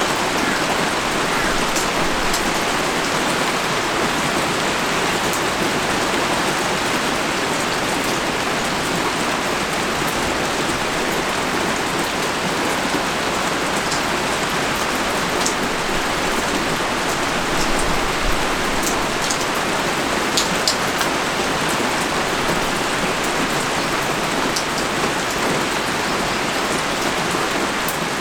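Heavy rain pouring down steadily, a dense hiss with scattered sharp ticks of individual drops striking close by.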